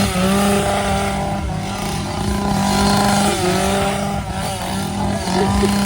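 Two-stroke chainsaw engine running at high revs, the pitch held nearly steady with a few brief dips as the throttle is eased and opened again.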